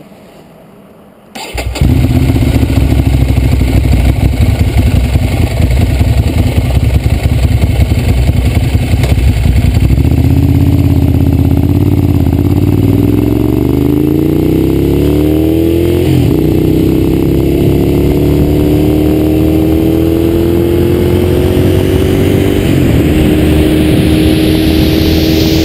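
Ducati Monster 795's air-cooled V-twin with a Termignoni exhaust starting up about a second and a half in, then running steadily before pulling away: the pitch climbs, drops at a gear change, and climbs again through the next gear. Wind noise grows near the end as speed builds.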